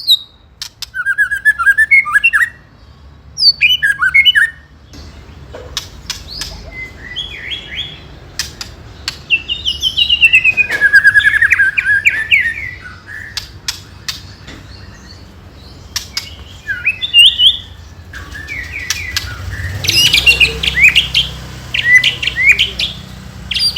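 White-rumped shama (murai batu) singing: rapid, varied whistled phrases and chirps broken by sharp ticking notes. It grows louder and denser near the end.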